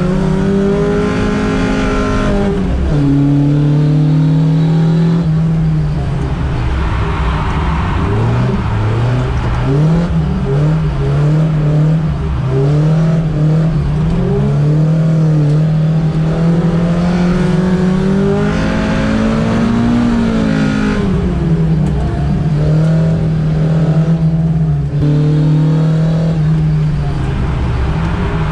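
Toyota AE86 Corolla's carbureted 4A-GE four-cylinder, heard from inside the cabin, revving up and down over and over while drifting, its pitch repeatedly rising and dropping away.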